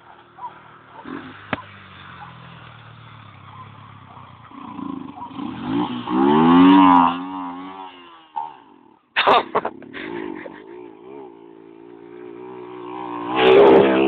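Motorcycle engines running, with the pitch wavering as the throttle is blipped. The loudest rev swells about six to seven seconds in, the sound briefly drops out a little after eight seconds, and it grows loud again near the end.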